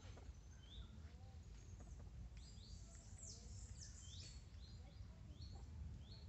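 Faint bird chirps: short, high calls that sweep downward, repeated many times from about two seconds in, over a low steady rumble.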